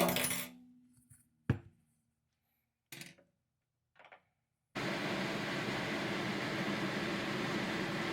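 A sharp clank with a short ringing tail, then a click and a couple of small knocks, then a steady, even hiss that starts suddenly near five seconds in.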